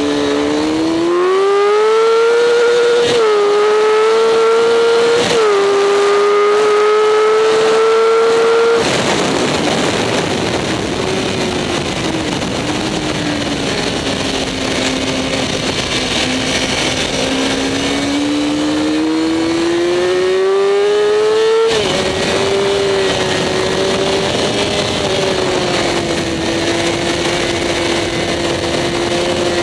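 Sport motorcycle engine on a racetrack heard from an onboard camera on the bike. The engine note climbs under full throttle with two quick upshifts, then falls as the throttle is closed for a corner, climbs again under acceleration and drops at one more upshift. A steady rush of wind noise runs underneath.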